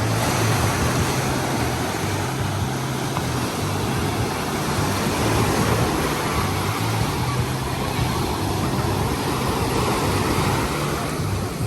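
Ocean surf breaking in a steady roar, with wind rumbling on the microphone.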